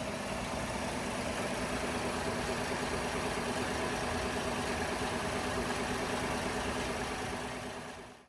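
2021 Chevrolet Silverado 1500 pickup's engine idling steadily, fading out near the end.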